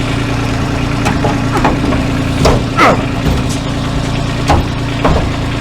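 Tractor engine idling steadily, with about seven short sharp knocks or clanks over it at irregular intervals.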